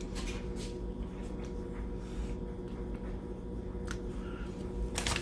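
Quiet room tone with a steady faint hum and a few soft ticks, then a short crinkling rustle near the end as a potato-chip bag is handled.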